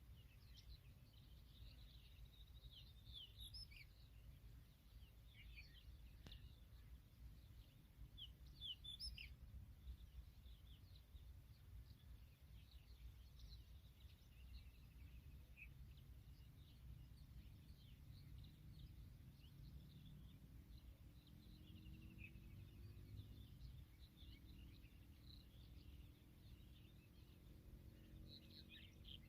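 Faint, short, high bird chirps and calls scattered all through, over a low steady rumble.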